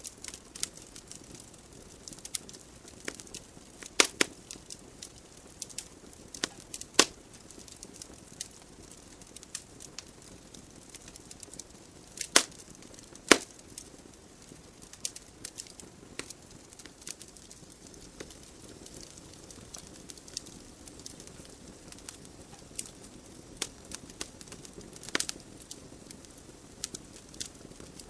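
Wood fire burning in a fireplace: a soft steady hiss under scattered crackles and sharp pops from the logs, the loudest pops about 4, 7, 12 and 13 seconds in.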